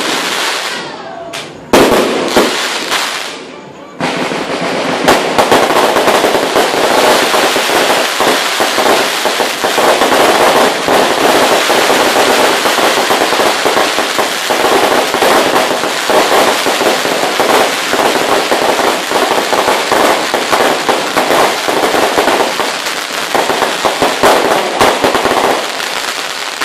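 Fireworks going off: a few loud separate bangs at first, then from about four seconds in a dense, continuous crackle of many rapid bangs.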